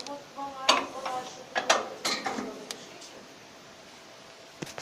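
Handling clatter: a few sharp knocks and clicks, roughly a second apart, with brief faint ringing, then it goes quiet.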